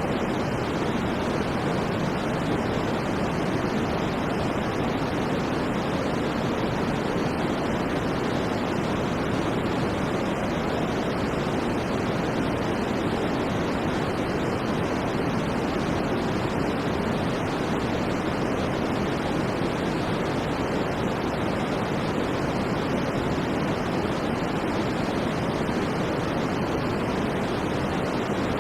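Steady white noise for sleep: an even, unbroken hiss that never changes, dull rather than bright, with most of its weight in the low and middle range.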